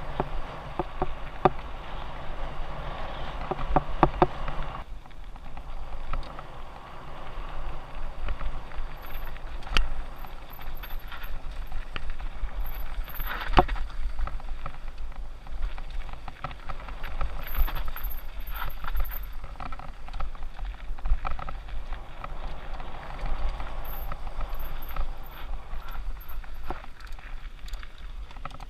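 Mountain bike riding downhill on a dirt trail: tyres running over dirt and rocks, the bike rattling and clicking over bumps, and wind rumbling on the microphone. A sharp knock stands out about halfway through.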